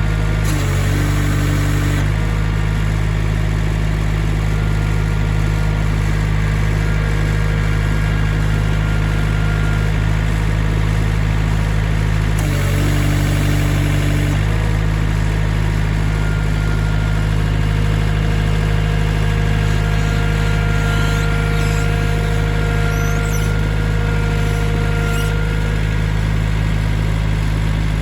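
Sawmill engine running steadily at a constant speed. A brief burst of extra hiss comes in just after the start and again about twelve seconds in.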